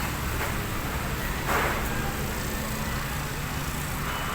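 Steady low rumble of a running engine under outdoor background noise, with one short louder noise about a second and a half in.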